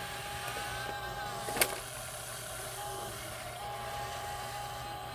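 Radio-controlled scale truck's engine sound running steadily at idle, a low hum with a thin steady whine that drops out briefly. One sharp click about a second and a half in.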